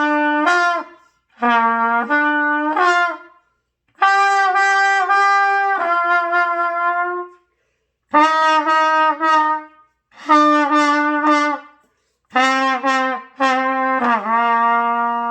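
Trumpet playing the practice pattern do-mi-sol: six short phrases of mostly three held notes stepping upward, separated by short pauses, with one longer held note in the middle phrase. The tone wavers slightly at note changes, as in beginner practice.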